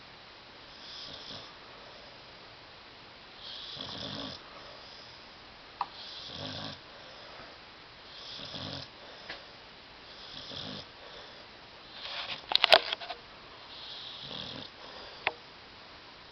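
Sleeping dog snoring: a breathy snore about every two seconds, with a louder snore broken by sharp clicks about twelve seconds in. A few short clicks fall between the snores.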